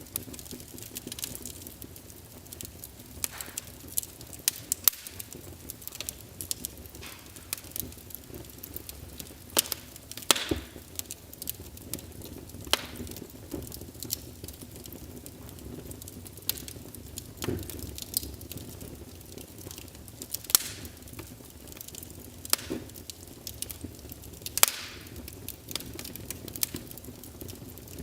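Wood fire burning in a fireplace: irregular crackles and sharp pops over a low steady rumble, with a few louder pops now and then.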